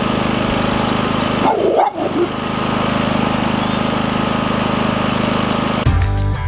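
Predator 5000 inverter generator engine running steadily, with a brief pitched yelp about one and a half seconds in. Music starts near the end.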